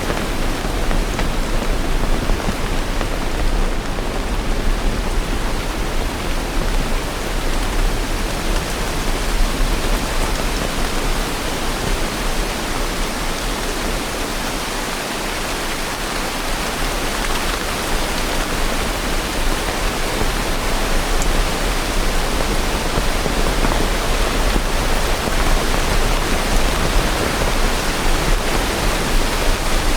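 Steady heavy rain, an even hiss with no distinct drops or thunder.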